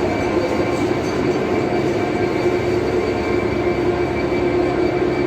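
Class 66 diesel freight locomotive's two-stroke EMD V12 engine running steadily, a low drone with a held tone over it.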